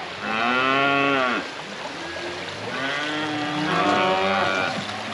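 Cattle mooing: two long calls, the first rising and falling over about a second, the second lower and longer.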